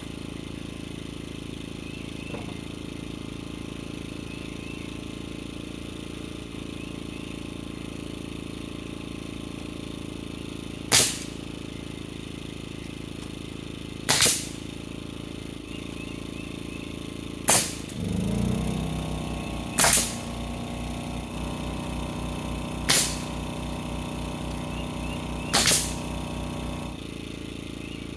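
Pneumatic framing nailer firing single sharp shots about every three seconds, seven in all, fastening roof 2x4s. About two-thirds of the way through a motor starts up with a steady hum and a low, even pulse, and stops shortly before the end.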